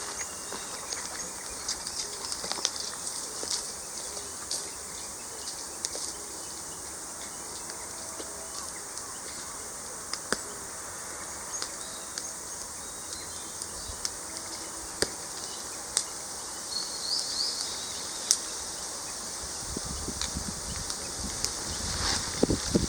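Outdoor rural ambience: a steady high-pitched insect drone with a few short bird chirps and scattered sharp clicks, and a low rumble of wind or handling noise near the end.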